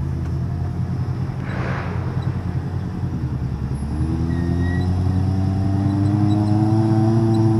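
Side-by-side UTV engine running with a low rumble; about halfway through its pitch climbs and holds higher as it is given throttle.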